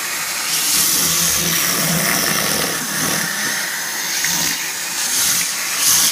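Vacuum cleaner motor running with rushing air and a whine that shifts in pitch; it cuts off suddenly at the end.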